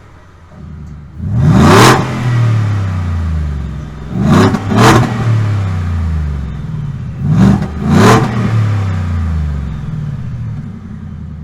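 Ford F150 EcoBoost's 3.5-litre twin-turbocharged V6 exhaust, revved in five sharp blips: one about a second and a half in, then two in quick succession, then two more. Each time the pitch climbs quickly and then sinks slowly back to a low idle.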